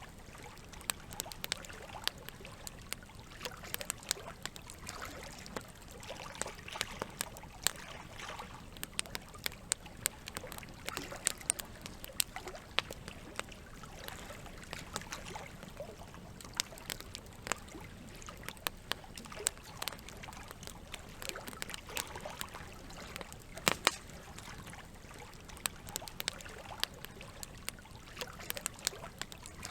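Campfire crackling with irregular sharp pops over a steady trickle of running water; the loudest pops come about 24 seconds in.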